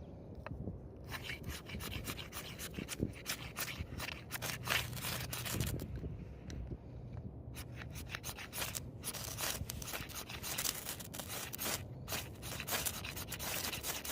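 Rapid, repeated scraping and rasping strokes, hard material rubbed against hard material, with a short pause about halfway through.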